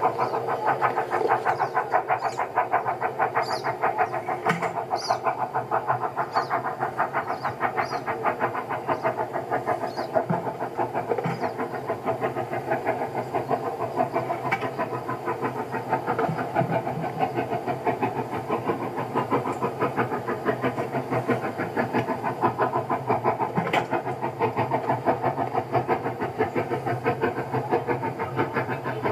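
An engine running steadily with a fast, even pulse and a few faint clicks.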